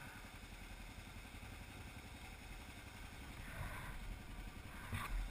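Kawasaki KLR650 single-cylinder dual-sport motorcycle idling at a standstill, a low steady running. There is a mild swell about three and a half seconds in and a short sharp knock near the end.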